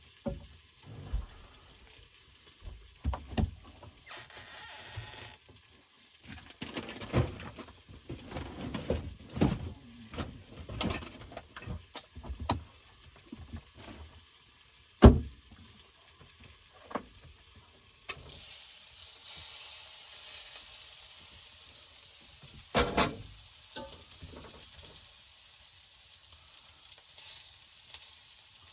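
Food sizzling in a frying pan while a utensil stirs and knocks against the pan. A sharp knock comes about halfway through, and about two-thirds in the sizzle turns louder and steadier, followed by a quick double knock.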